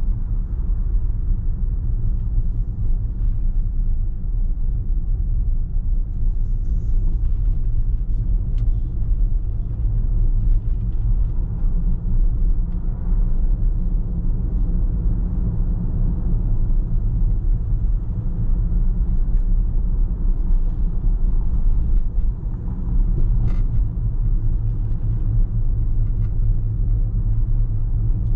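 Car driving at a steady speed: a constant low rumble of road, tyre and engine noise with no change in pace.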